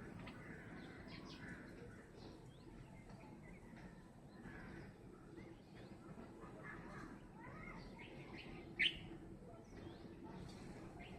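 Birds chirping with many short calls scattered throughout, and one sharp, louder call about nine seconds in, over a steady low background hum.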